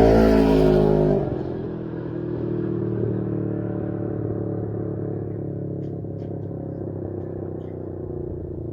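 Can-Am Ryker 600's two-cylinder engine running through a Brannon King muffler with a silencer baffle: loud and strongly pitched for about the first second, then dropping to a quieter, steady running note for the rest.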